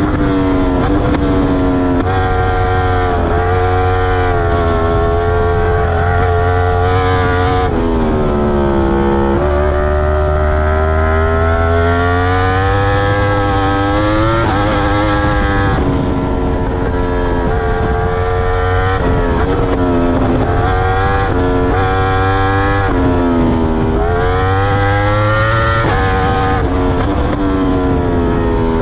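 Yamaha R1's crossplane inline-four, fitted with an Akrapovic full titanium exhaust and dB killer, heard on board under hard acceleration. The pitch climbs through the gears and drops sharply several times on braking and downshifts.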